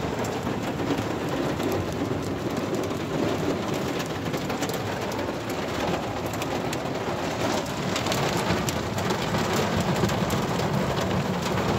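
Heavy rain pouring onto a campervan's roof and windscreen, heard from inside the cab: a dense, steady wash of rain with many sharp individual drop hits.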